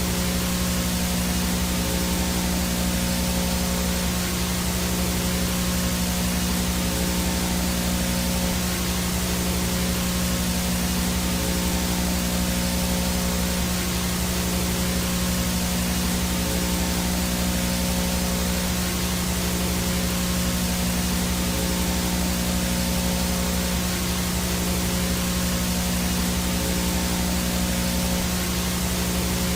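VHS no-signal static: a steady hiss of white noise with a low steady hum and a few faint steady tones under it, unchanging throughout.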